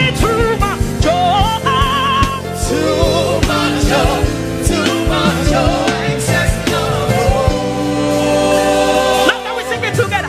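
Live gospel music: a solo singer's wavering, ornamented vocal runs over a band with drums and sustained keyboard chords, settling into a long held chord near the end.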